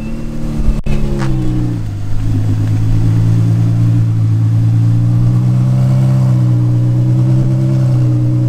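Ferrari 488 Challenge race car's twin-turbo V8 running: the revs fall away over the first couple of seconds, then it settles into a steady idle.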